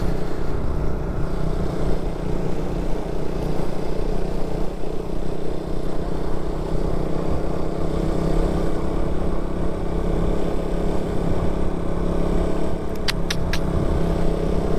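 A motorcycle engine running at a steady cruising speed while riding, with a constant low rumble underneath. A few brief high-pitched chirps come about thirteen seconds in.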